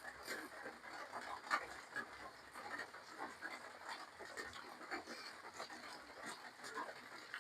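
Close-up eating sounds of a person chewing spicy seafood papaya salad with rice noodles: wet, irregular clicks and smacks of the mouth, with no pauses.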